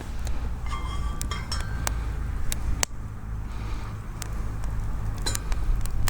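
A metal utensil clinking against cookware while scrambled eggs are made: scattered sharp clicks, a few of them with a short ringing tone about a second in, over a steady low rumble.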